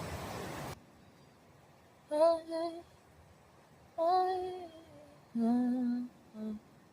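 A woman quietly singing or humming a few short held notes of a tune, in three or four phrases with pauses between. Under a second in, a steady background hiss cuts off suddenly.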